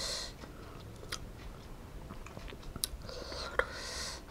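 Close-miked chewing and mouth sounds of people eating by hand, with a few soft sharp clicks.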